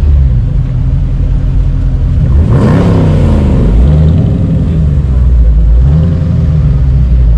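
Muscle-car V8 engine idling loudly and revved sharply about two and a half seconds in, then blipped again a couple more times.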